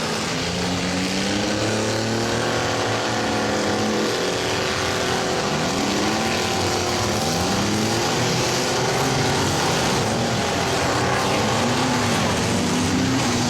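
Engines of several minivans, small pickups and SUVs in a demolition derby revving at once, their pitches rising and falling over one another as the vehicles push and ram.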